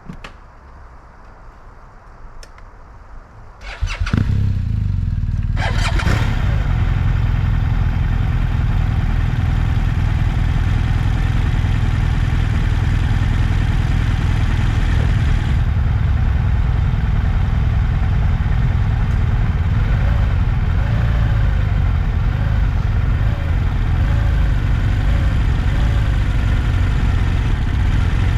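A motorcycle engine starts about four seconds in and then idles steadily and loudly.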